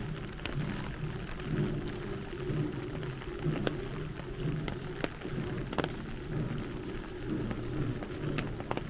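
Heavy rain falling steadily, with scattered sharp taps of single drops landing close by.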